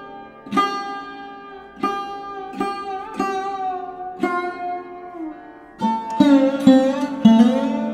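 Background music played on a plucked string instrument: slow single notes that ring and fade, some sliding in pitch, over a steady drone, with a quicker run of notes near the end.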